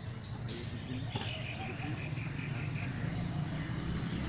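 A bird calling a quick run of about eight repeated high chirps, over a low rumble that grows toward the end.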